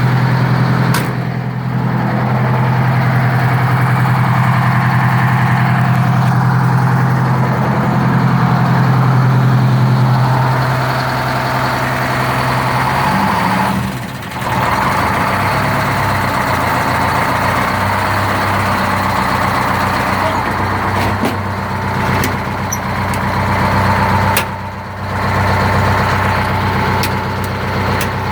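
Detroit Diesel 8V71N two-stroke V8 in a 1982 Hahn fire truck idling steadily after a cold start. Its note shifts about thirteen seconds in and settles slightly lower.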